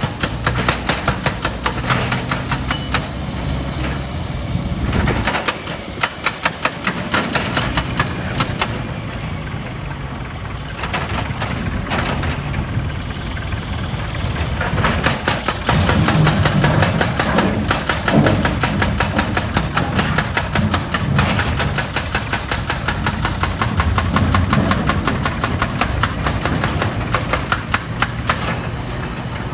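Stone crusher plant machinery: an engine running under a dense, rapid clatter of knocks as rock is broken and rattled through the plant. The low rumble drops away briefly about five seconds in, then returns.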